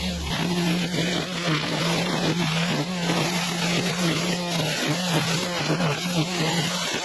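A vehicle running steadily, a constant drone under heavy, even road or wind noise.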